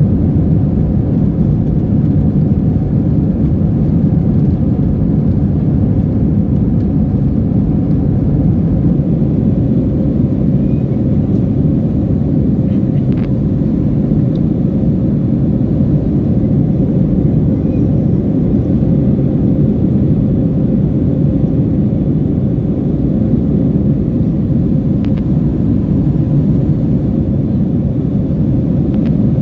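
Steady low rumble of an Airbus A321's engines and airflow heard inside the passenger cabin, even in level throughout, with a faint steady hum and a couple of faint clicks.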